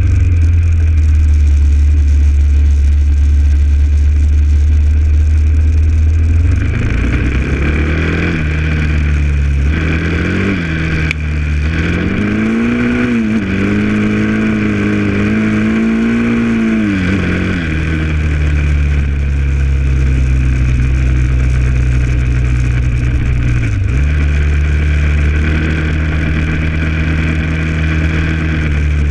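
Honda XR650L's single-cylinder four-stroke engine running under way. It holds a steady cruise at first, then the engine note climbs and falls through several throttle changes in the middle before settling back to a steady cruise.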